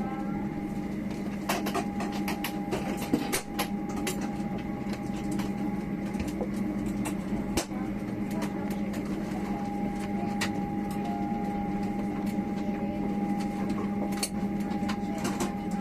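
Boeing 737-800 cabin at the gate after landing: a steady ventilation hum with a thin whine over it, and scattered clicks and knocks throughout.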